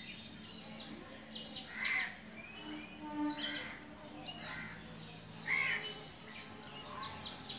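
Birds chirping, short repeated calls about once a second over a faint background hum.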